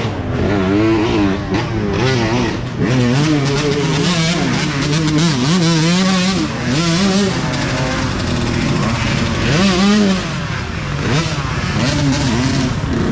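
Dirt bike engines revving up and down over and over under changing throttle, with more than one bike's pitch overlapping at times.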